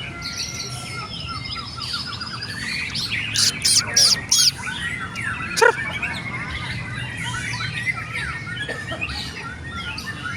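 White-rumped shama singing a varied run of whistled phrases and trills, overlapping other songbirds, with a few loud, sharp high notes about three and a half to four and a half seconds in.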